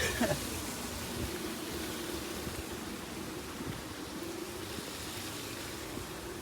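Steady running noise of outdoor air-conditioning condensing units, an even whoosh with a faint steady hum underneath.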